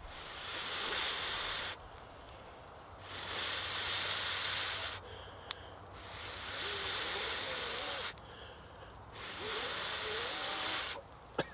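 A person blowing long, steady breaths onto smouldering wood-shaving tinder to coax a campfire into flame, four breaths each a little under two seconds with short pauses between. A sharp tick midway and another near the end.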